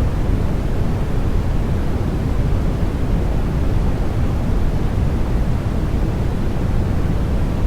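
Continuous baby-sleep 'white noise': a steady, even rushing hiss, weighted toward the low end and fading off in the highs, with no rhythm and no change.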